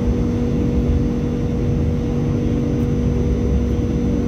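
Interior of an MTR Light Rail Phase III car running along the track: a steady low rumble with a constant hum, unchanging throughout.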